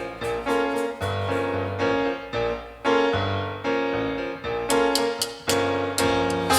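Piano playing an instrumental passage: repeated struck chords that each die away, over low bass notes.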